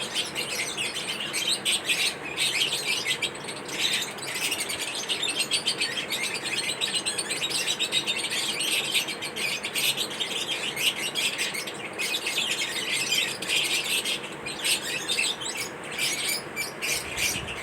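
Lovebirds chirping rapidly and continuously, a dense run of high-pitched chirps.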